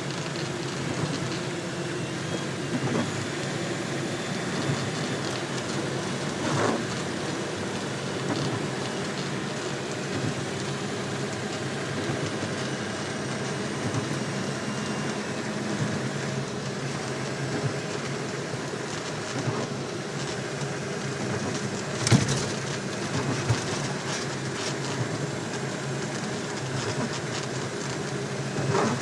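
Hummer H1 driving at highway speed: a steady engine drone with road noise and a broad hiss over it. A few short sharp knocks break in, the loudest about three-quarters of the way through.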